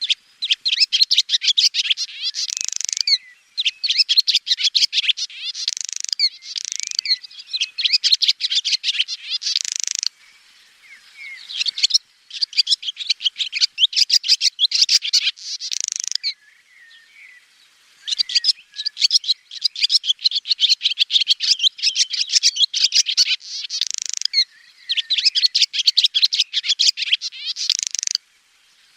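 Swallows twittering: rapid runs of high chirps and liquid trills in bouts of several seconds, breaking off twice for a second or two.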